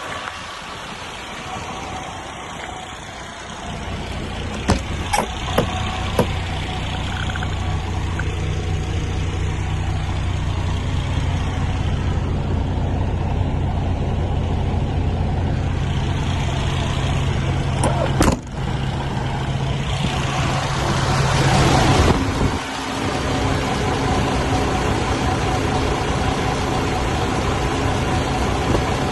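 MAN TGS 33.440 truck's diesel engine running steadily, its hum growing louder about four seconds in. A few sharp clicks sound around five to six seconds in and again past the middle, and a loud hissing rush lasts about two seconds later on.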